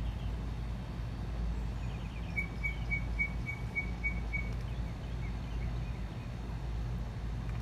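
Steady low background rumble outdoors, with a bird giving a quick run of about eight short high chirps, about four a second, starting some two and a half seconds in.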